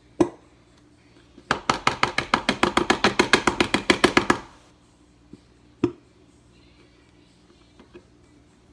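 A fast, even run of knocks, about ten a second for roughly three seconds, with single sharp knocks before and after it.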